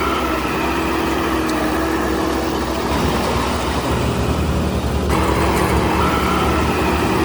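Heavy construction machine's diesel engine running steadily. Its note changes briefly from about three to five seconds in, then returns.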